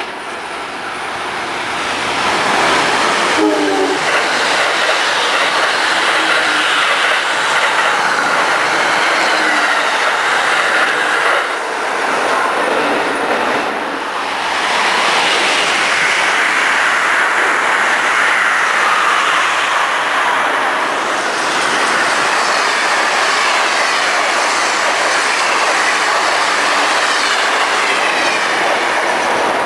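A train passing close by: a steady rushing of wheels on rail that lasts the whole time, with a brief pitched sound about four seconds in.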